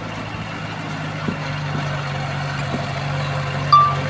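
Heavy diesel engine of earthmoving machinery running steadily, with one short high-pitched tone near the end.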